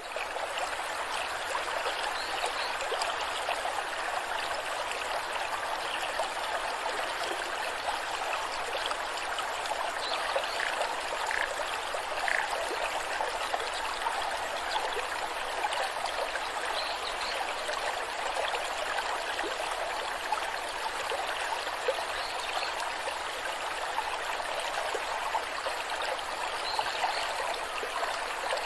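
Rushing waterfall: a steady, even rush of falling water, with small splashes and trickles flecked through it.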